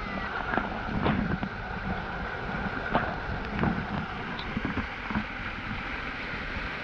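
Waterfall water rushing steadily, with a few short sharp splashes.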